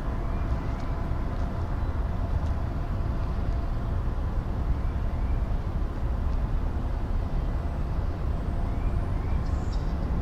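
Long freight train rolling slowly past, a steady low rumble of wheels on rail with a few faint short squeaks.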